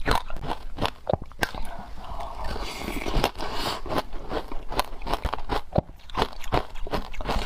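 Close-up biting and crunching of wet frozen matcha ice, with many quick, irregular cracks and crackles as the ice breaks between the teeth.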